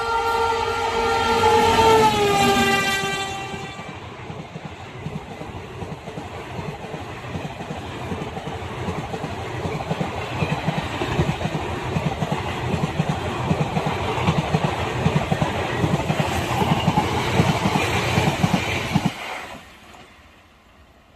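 A passing train's horn sounds a multi-note chord that drops in pitch about two seconds in as the locomotive goes by, and stops a little later. Then the coaches rush past with a fast clatter of wheels over the rail joints, which falls away sharply near the end as the last coach clears.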